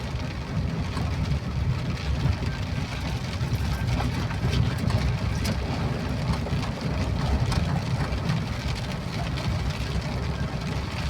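Vehicle engine and road noise as a steady low rumble, with rain falling and faint scattered drop ticks.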